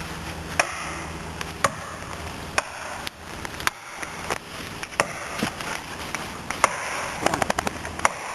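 Irregular sharp knocks, roughly one a second, bunching into a quick run of several near the end, over a faint steady low hum.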